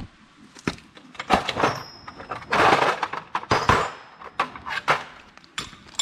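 An impact gun undoing wheel hub nuts in short bursts, the longest lasting under a second about two and a half seconds in, among clinks and knocks of metal tools and nuts.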